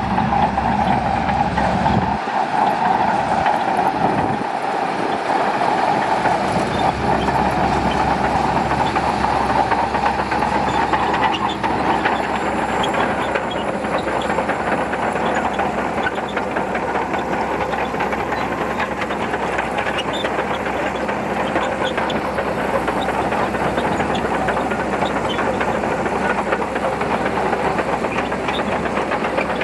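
Shantui crawler bulldozer working, its diesel engine running steadily under a dense, continuous clatter of the steel tracks.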